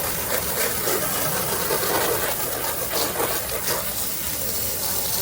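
Plain water spraying steadily from a soft wash hose, with the battery-powered soft wash pump running.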